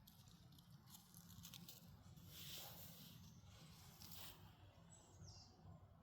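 Near silence, with a few faint soft rustles.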